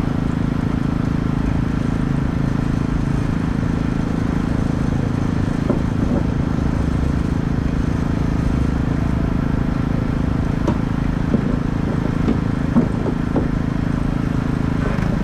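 An engine running steadily at an even speed, with a few light taps in the second half.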